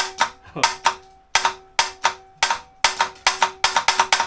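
Toyota 4Y four-cylinder engine firing with no exhaust fitted: loud, sharp, ringing pops, a few at a time at first, then coming faster near the end as it starts to catch.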